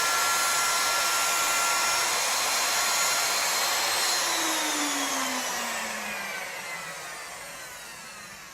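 Router motor on a CNC machine running at speed with a steady whine, then switched off about four seconds in and spinning down, its pitch falling and the sound fading.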